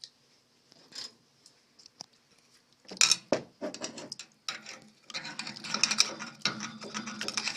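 Metal tools and pipe fittings clinking, clattering and scraping during hands-on work on steam boiler plumbing. There are a few separate clicks at first, then from about three seconds in a busy run of metallic knocks and scrapes.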